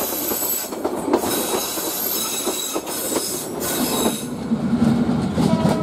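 Passenger coaches rolling slowly past on the rails as the train crosses from the loop line onto the main line, with high-pitched wheel squeal and clacks of the wheels over the rail joints. The squeal stops about four seconds in as the last coach goes by.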